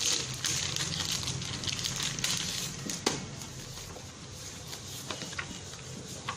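Paper booklets and packaging being handled, rustling for the first few seconds, with a sharp tap about three seconds in and a few lighter clicks after it.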